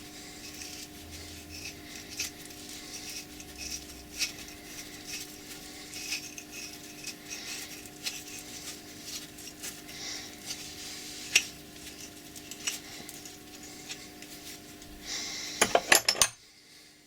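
Steel parts of an old bolt cutter being handled and taken apart: scattered metallic clinks, taps and scrapes over a faint steady hum, with a quick clatter of several loud clicks shortly before the end.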